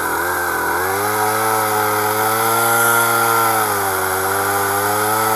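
Small two-stroke engine running loud, its pitch wavering and dipping during the first second, then holding steady, before it cuts off abruptly at the end.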